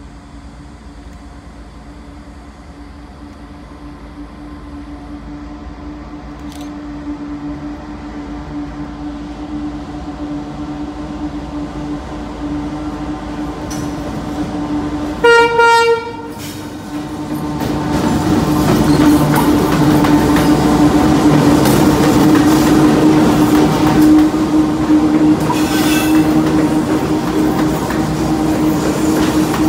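Diesel freight locomotive approaching, its engine growing steadily louder, then one horn blast of about a second about halfway through. The train then passes close by with loud engine and wheel-on-rail noise.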